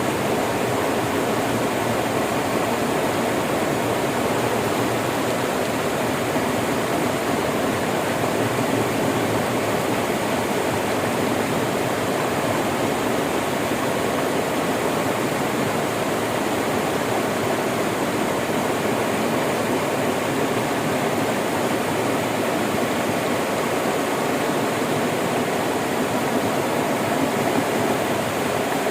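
River water flowing and rushing in a steady, unbroken wash of noise.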